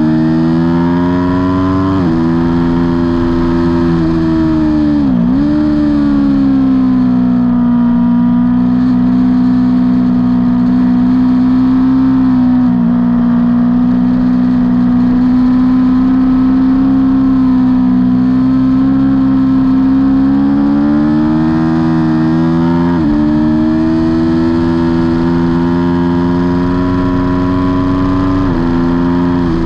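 Aprilia Tuono V4's V4 engine running hard at high revs on track, its pitch stepping abruptly a few times as gears change, with a sharp drop and recovery about five seconds in.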